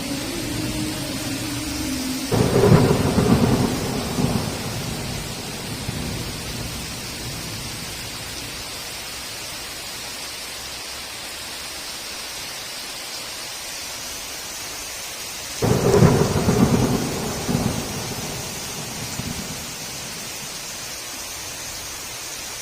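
Steady heavy rain with two claps of thunder, one a couple of seconds in and another about thirteen seconds later, each rumbling and crackling for about two seconds before fading back into the rain.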